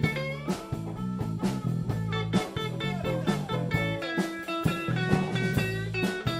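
Live blues band playing an instrumental passage of a funky blues groove: electric guitars, bass guitar and drum kit keeping a steady beat.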